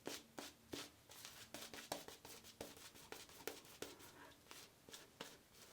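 Near silence with faint, irregular light clicks and ticks, a little over one a second.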